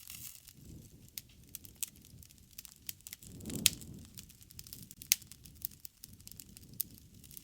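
Campfire burning with irregular crackles and pops over a soft low rumble, with a louder flare and sharp pop about halfway through.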